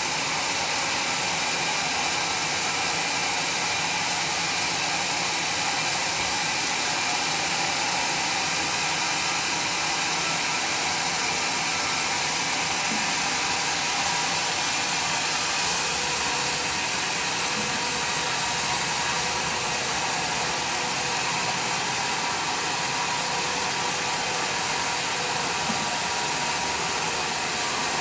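A homemade sawmill's saw running steadily through a log, a constant, even machine noise with no break.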